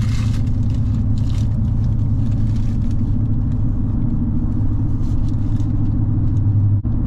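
Vehicle engine running with a steady low hum, heard inside the cab, with faint crinkling of a sandwich wrapper over it; the hum briefly drops out near the end.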